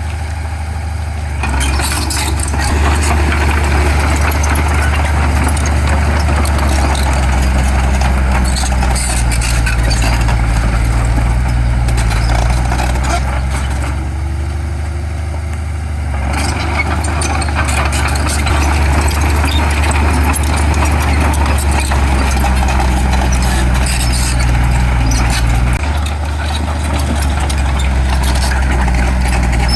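Heavy diesel engine of earthmoving machinery running steadily, with a deep drone. It eases off briefly at the start and again around the middle, then its pitch shifts near the end as the load changes.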